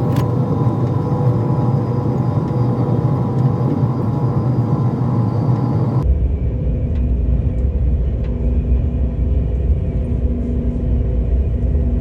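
Steady rumble of a passenger train running, changing abruptly about six seconds in to a deeper, duller rumble.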